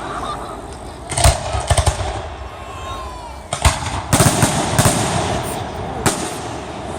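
Fireworks bursting: a quick run of bangs about a second in, a single bang, another cluster of bangs near the middle and one more near the end, with crackling between them.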